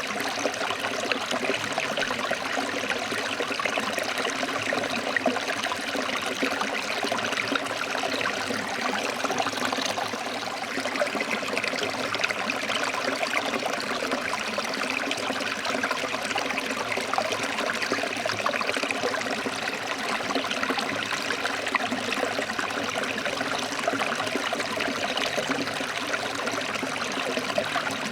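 Forest stream flowing and splashing over rocks, a steady even rush of water.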